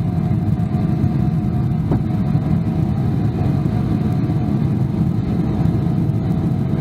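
Cabin noise of a Boeing 777-300ER in its initial climb just after liftoff: its GE90 engines at takeoff thrust and the rushing air give a steady, loud low rumble, with a faint steady tone above it.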